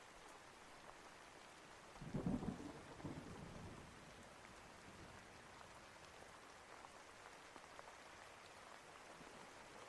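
Steady rain hiss with a rumble of thunder about two seconds in, fading out over the next couple of seconds.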